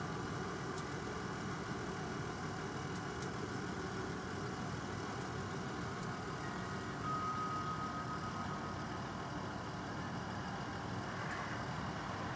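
Steady low rumble like an engine idling, even throughout, with a faint thin whine for about two seconds a little past the middle.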